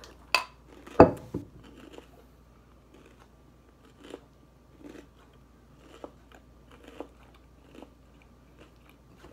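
A person chewing a mouthful of Unlucky Charms marshmallow cereal in milk, with faint crunches about once a second. Two sharp clicks come within the first second or so, the louder one about a second in.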